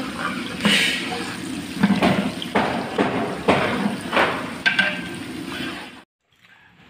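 Onions and whole spices sizzling in hot oil in a large aluminium pot while a long-handled ladle stirs them, clanking and scraping against the pot about six times. The sound cuts off suddenly about six seconds in.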